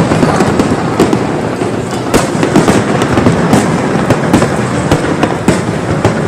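Fireworks going off: dense crackling with repeated sharp bangs.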